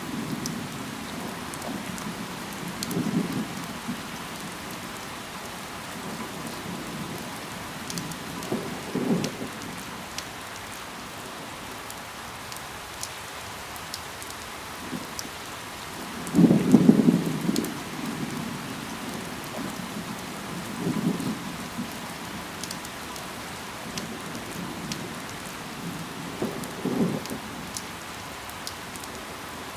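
Steady rain falling, with scattered sharp drop ticks. Every few seconds a brief, louder low thud cuts through, the biggest about seventeen seconds in.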